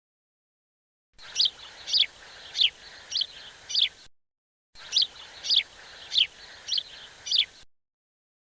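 A bird calling: a run of five short, high chirps that slide downward, about one every 0.6 seconds, heard twice with a brief silent gap between the runs, each starting and stopping abruptly.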